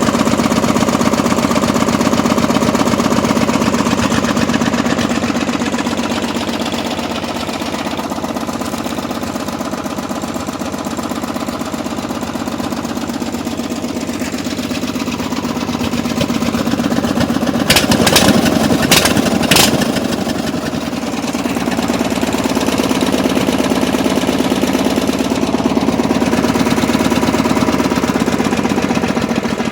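Engine of a homebuilt mud rig idling low and steady on a cold start. About two-thirds of the way through there are three brief sharp clacks.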